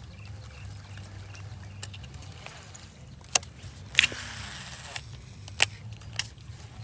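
A topwater lure being worked across the water on a baitcasting outfit: a few sharp clicks and a brief splashy hiss about four seconds in, over a steady low hum.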